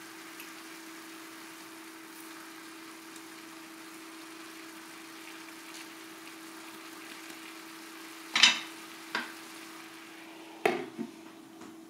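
Fried rice sizzling in an enameled cast-iron skillet and being stirred with a wooden spatula, over a steady low hum. About eight seconds in there is a loud sharp clatter, then a lighter knock, and near the end two knocks as a glass lid is set on the skillet.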